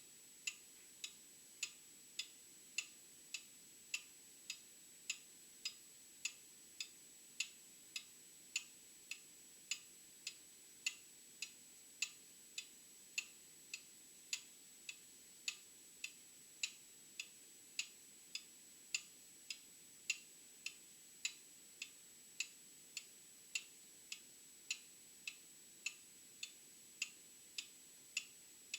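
Old mechanical clock ticking steadily, with even, sharp ticks just under two a second, alternating slightly in loudness in a tick-tock pattern.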